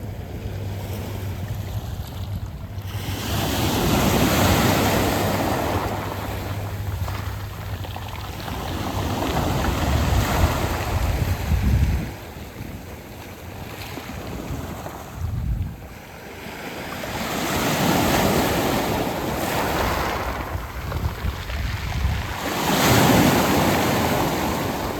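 Surf washing in and out over a beach of round pebbles, swelling and ebbing in slow surges about every six seconds.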